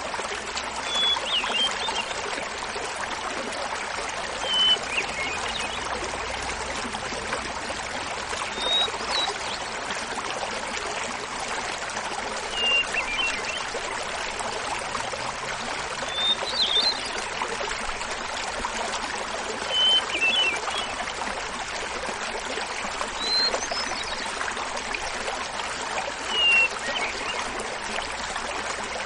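Small mountain waterfall splashing and babbling steadily, with a hermit thrush singing over it: eight short flute-like phrases, one about every three and a half seconds, each starting on a held note.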